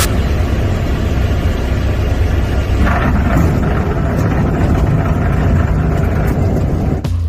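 Light aircraft's piston engine running steadily: a loud, even drone with a heavy low rumble and rushing noise.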